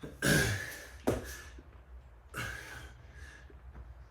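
Hard, noisy exhaled breaths of a man doing burpees, one near the start and another about two and a half seconds in, with a sharp thump on the floor about a second in.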